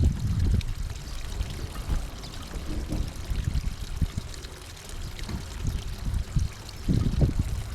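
Water running and trickling steadily, with faint high chirps now and then.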